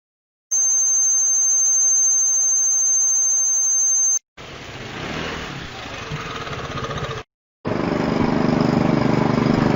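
Three noise sound effects cut one after another: a loud one with a steady high whine, a quieter hiss, then a machine engine running.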